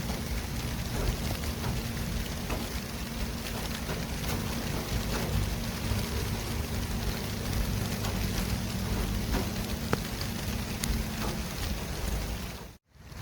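City street traffic ambience: a steady hiss and low rumble of passing vehicles, with a low engine hum under it for most of the time. The sound cuts out briefly near the end and comes straight back.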